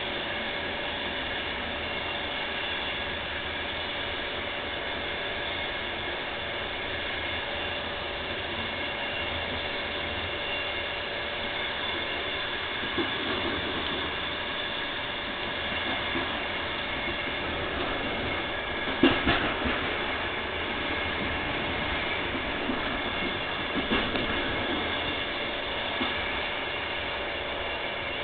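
VR Intercity passenger train at low speed, giving a steady electric hum with scattered metallic clicks and clanks from the wheels and cars. The loudest clank comes as a short cluster about two-thirds of the way through.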